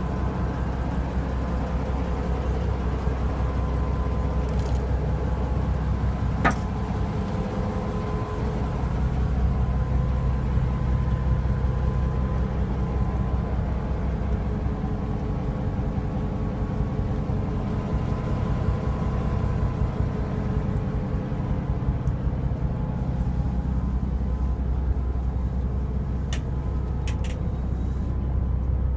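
Fishing boat's engine running steadily, with a sharp click about six and a half seconds in and a couple of faint clicks near the end.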